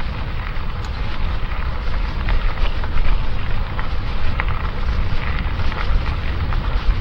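Wind buffeting the microphone in a steady low rumble, over a hiss of rain with scattered light drop ticks.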